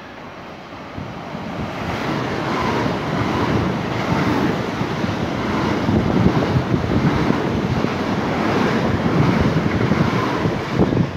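Southern Class 377 Electrostar electric train passing through the station at speed: a rush of wheels on rail and air that swells over the first couple of seconds, stays loud, then drops away sharply near the end as the last coach clears. Wind buffets the microphone as the train passes.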